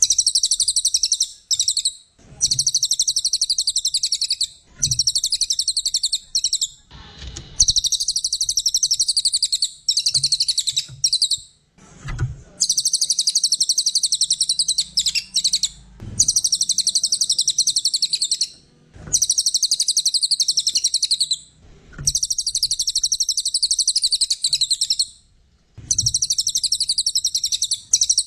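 Cililin songbird singing in long phrases of very rapid, high-pitched chattering notes, each one to three seconds long and repeated after short pauses. The song is loud and busy, the kind keepers use as a tutor song for magpie-robins and shamas.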